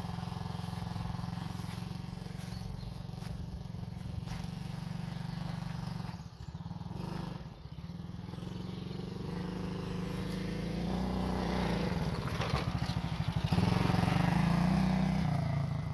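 Apollo Hurricane 125cc quad's engine running, with two brief dips about six and seven and a half seconds in. From about nine seconds it rises in pitch and grows louder, is loudest near the end, then drops off.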